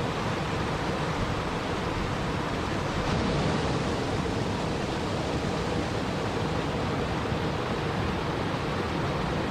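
Steady rushing water, an even, unbroken hiss with no separate drops or splashes standing out.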